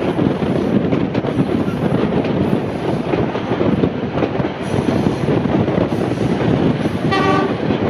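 Heritage passenger train running along the line, heard from aboard a carriage: a steady rumble of wheels on the track with some wind noise. About seven seconds in, a brief high pitched tone sounds once.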